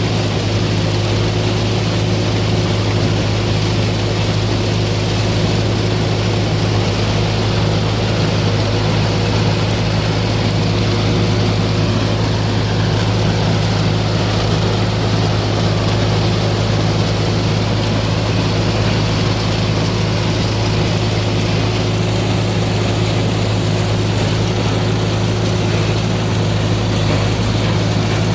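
Corn picker, driven by its tractor, running steadily as corn stalks feed into it: a constant low machine hum with an even mechanical clatter over it.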